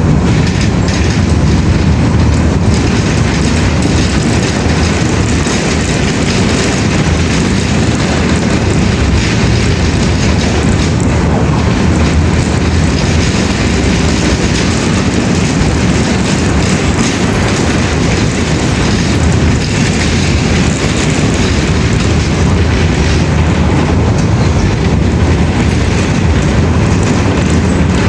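Loud, steady rumbling noise, heaviest in the low end, running on without let-up.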